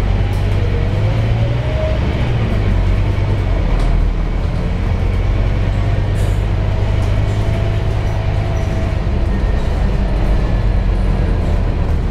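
Scania K230UB single-decker bus under way, heard from inside the cabin: a steady low engine rumble, with a faint whine rising in pitch about half a second to two seconds in and another faint whine held from about six to nine seconds.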